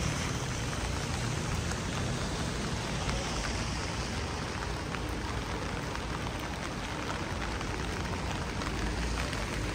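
Steady rain falling on the street, with many small drop ticks over a low rumble.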